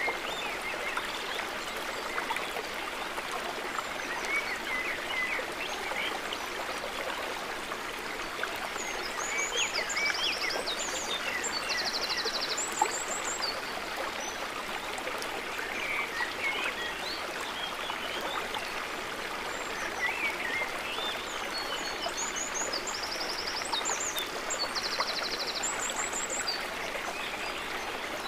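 Gently trickling and gurgling water, a soft steady babble, with high chirping calls and short trills breaking in twice.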